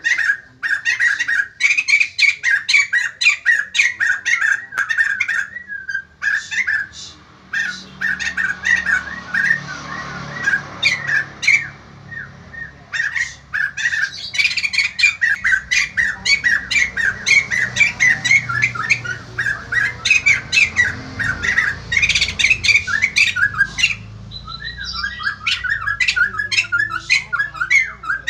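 White-crested laughingthrush calling: a loud, continuous run of rapid, harsh chattering notes with hardly a pause.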